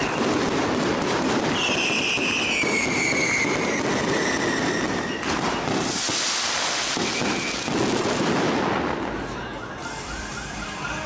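Fireworks going off in dense crackling volleys, with whistling tones sliding down in pitch a couple of seconds in and a loud hissing burst about six seconds in, thinning out near the end.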